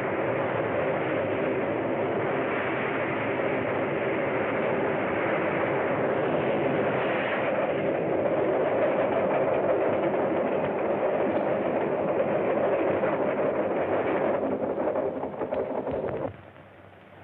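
Steam locomotive and train running at speed: a dense, steady rumble with a droning pitched tone running through it. It cuts off abruptly shortly before the end. The sound is dull and narrow, as on an old film soundtrack.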